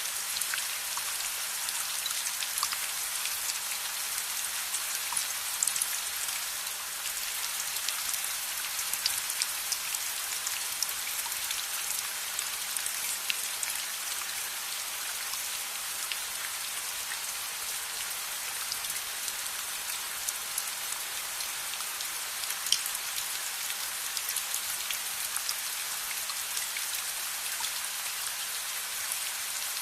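Steady rain falling and pattering on a surface, a dense even hiss with many scattered sharp ticks of individual drops.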